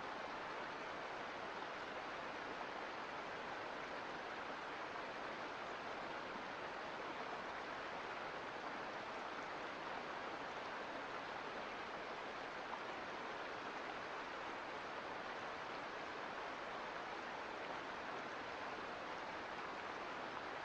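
Mountain creek flowing, a steady rushing of water.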